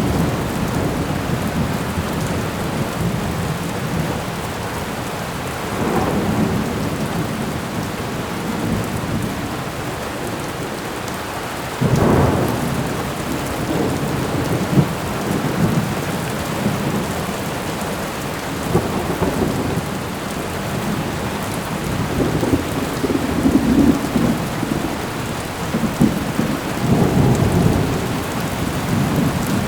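Thunderstorm: steady heavy rain with rolling thunder that swells and fades several times, the loudest rumble breaking in suddenly about twelve seconds in.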